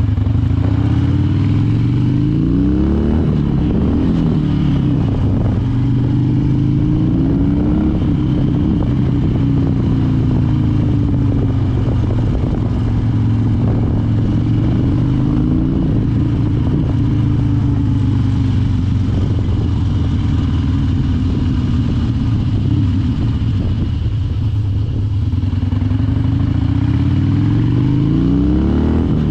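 Harley-Davidson Dyna Wide Glide's V-twin engine running steadily, its pitch rising and falling gently with the throttle, with a sharper rise near the end.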